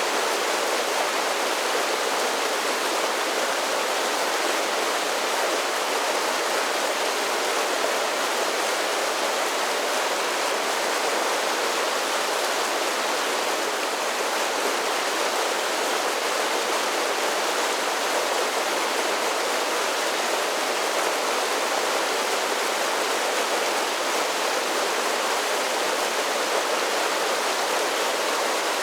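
Creek water cascading over a series of small falls, a steady, unbroken rush.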